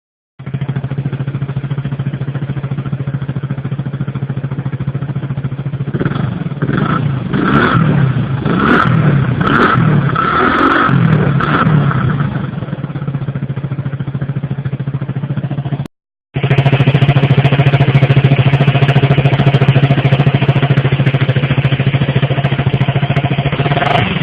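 Vehicle exhaust idling with a steady low note, given a run of short throttle blips about six seconds in that rise and fall in pitch over several seconds. After a sudden brief dropout near the two-thirds mark it returns louder and steady.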